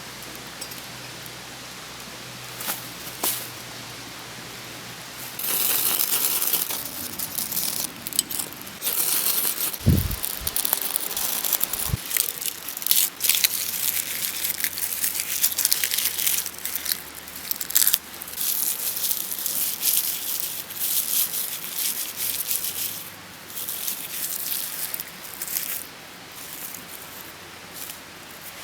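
Crinkling and rustling with many sharp clicks, as things are handled, starting about five seconds in; two heavy knocks stand out about ten and twelve seconds in.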